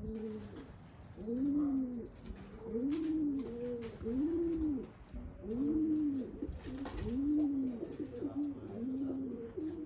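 Domestic pigeons (a loft's stock birds) cooing, low arched coos repeating about once a second from several birds, overlapping.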